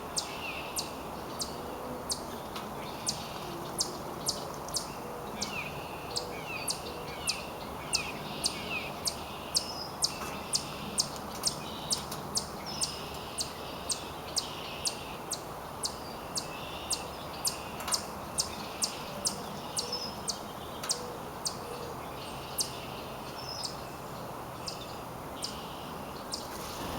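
Songbirds calling outdoors: a sharp, high chip repeated about twice a second, over softer chirping notes and a steady background hiss.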